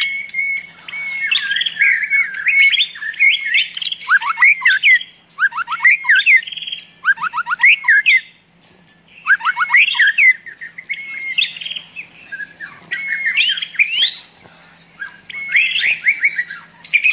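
A songbird singing loudly and continuously in varied phrases of chirps and warbles, broken by several runs of quick falling notes, with brief pauses between phrases.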